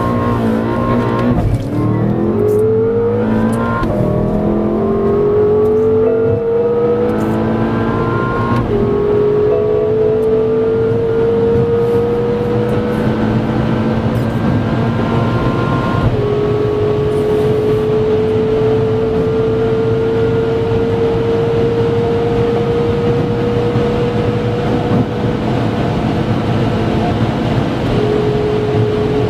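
BMW M5 F10's 4.4-litre twin-turbo V8 at full throttle, its pitch climbing through each gear and dropping at every upshift. The shifts come quickly at first, then further apart as speed builds, the last ones about 9, 16 and 28 seconds in.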